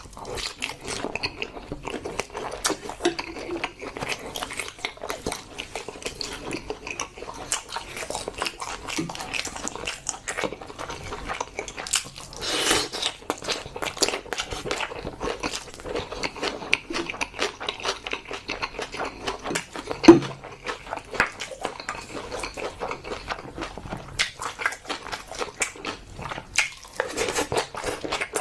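A person eating spicy pork trotters and bibim-guksu noodles close to the microphone: steady chewing and biting with many small clicks. A single sharp, loud knock comes about two-thirds of the way through.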